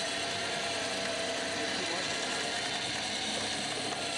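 Winch running steadily with a mechanical, gear-like sound as it hauls an old tractor onto a trailer.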